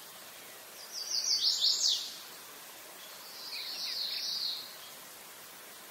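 A songbird singing two short phrases of quick high notes, the first about a second in and the second after about three seconds, over a steady background hiss.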